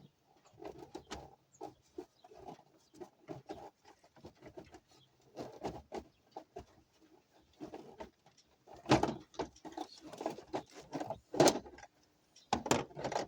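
A series of irregular clicks and knocks, with a few sharper, louder strikes in the second half.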